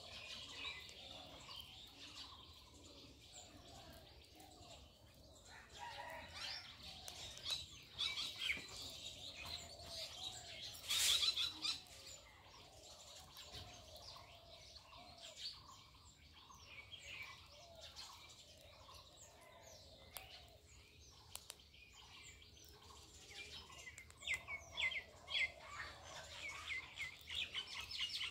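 Small birds chirping and calling, with many short high chirps that come thicker near the end. One brief louder sound comes about eleven seconds in.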